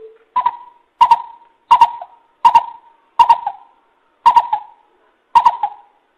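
Coucal giving a series of about seven short hoots on one pitch, roughly one every three-quarters of a second, with the gaps widening near the end.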